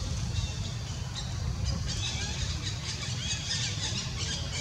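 Birds calling in short, high, falling chirps, repeated several times a second in places, over a steady low rumble.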